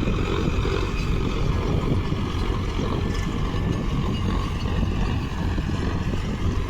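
Tractor diesel engine running steadily with a low, even rumble and no change in speed.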